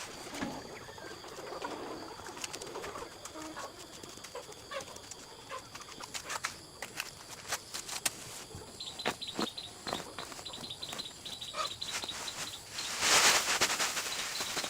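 Birds calling with scattered short clicks and ticks, a high thin chirping from about two-thirds of the way in, and a brief loud rustle, like wings flapping, about a second before the end.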